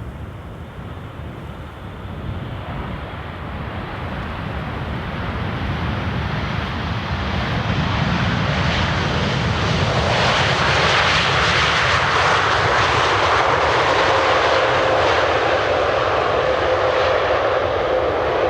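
Jet airliner's engines growing steadily louder over several seconds as it comes close, then a loud steady rush with a whine over the second half.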